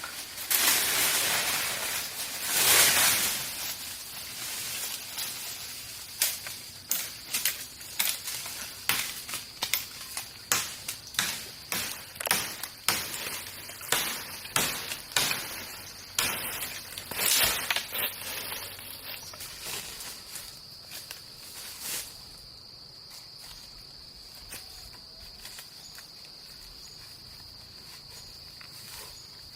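A steady, high insect trill that goes on throughout. Over it, for the first twenty seconds or so, comes a loose run of sharp knocks and rustles, roughly one or two a second, which then stops.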